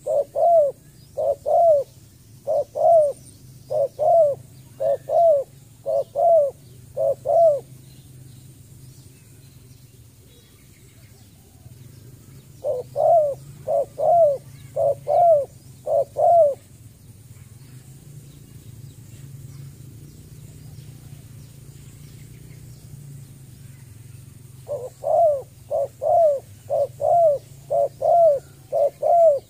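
Spotted dove calling: short coos rising and falling in pitch, mostly in pairs, repeated about twice a second. They come in three bouts with pauses of several seconds between.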